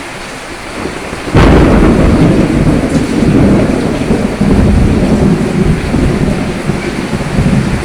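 Steady heavy rain, with a thunderclap about a second and a half in that cracks sharply and then rolls on as a long deep rumble, slowly fading.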